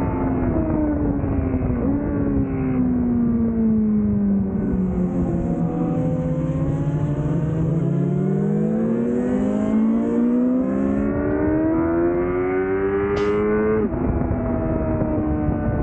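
2005 Yamaha YZF-R6's inline-four engine through a Laser aftermarket exhaust, heard from on board the bike on track. The revs fall for the first half, with a short step up about two seconds in as the bike slows for a corner, then climb steadily under acceleration until a sudden drop near the end as it shifts up a gear.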